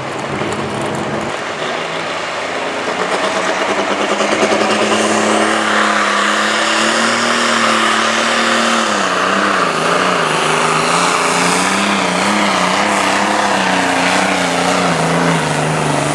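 Turbocharged diesel pulling tractor's engine running hard under load on a pull, growing louder over the first few seconds. About halfway through, its pitch drops and wavers as the load pulls the engine down, and it sinks lower again near the end.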